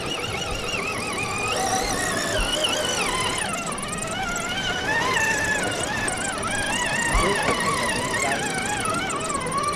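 Scale RC crawler truck's electric motor and gearbox whining, the pitch wavering up and down as the throttle is worked slowly through the course.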